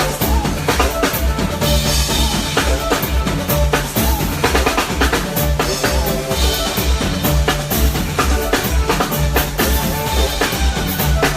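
Live band playing music with a steady drum-kit beat, bass drum and snare hits over a pulsing bass line, without vocals.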